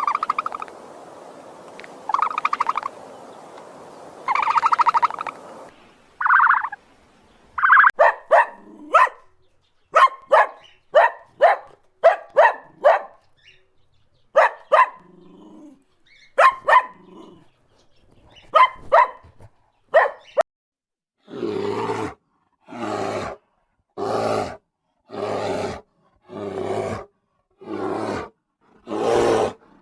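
Several animals calling in turn. First, a few long bleats, most likely goats. Then a quick run of short sharp barks, and from about two-thirds of the way in, a steady series of deep calls about one a second.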